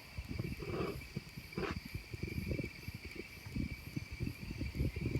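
Crickets trilling steadily, with irregular low rumbling bumps throughout and a single sharp click about a second and a half in.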